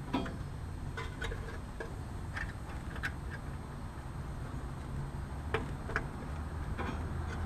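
Scattered light clicks and taps, about nine spread unevenly over the stretch, from handling meter leads, wire terminals and capacitor parts inside an air conditioner's electrical compartment, over a low steady rumble.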